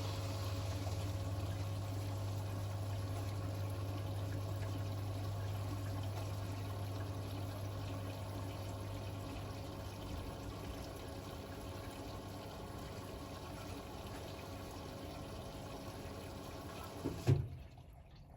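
Hotpoint WML540 washing machine filling: water rushing steadily into the drum, with a low hum under it. About a second before the end there is a short clunk and the flow cuts off as the fill stops.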